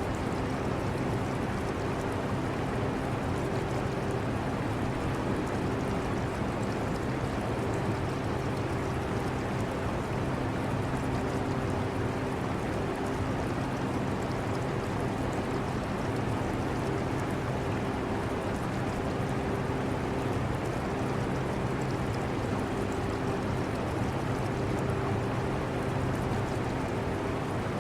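Portable air conditioner running with a steady hum, higher tones in it fading in and out every few seconds, mixed with the trickle and gurgle of aquarium water.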